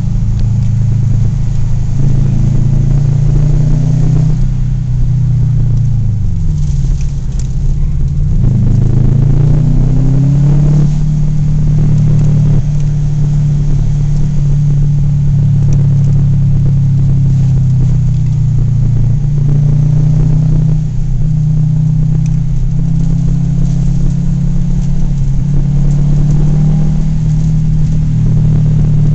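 Subaru Impreza WRX STI's turbocharged flat-four engine droning steadily, heard from inside the cabin at driving speed. About five seconds in, the engine speed falls, then climbs back up over the next few seconds as the car accelerates.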